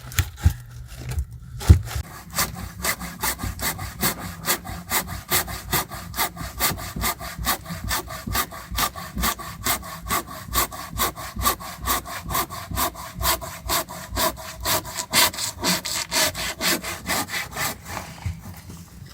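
Hand saw cutting through a dry deadfall log in steady back-and-forth strokes, about three a second, after a few knocks at the start; the sawing stops near the end.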